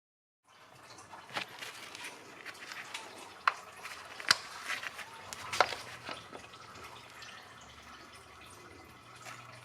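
Engine oil draining from the BMW N20 engine into a drain pan as a steady trickle, with a few sharp ticks in the first six seconds.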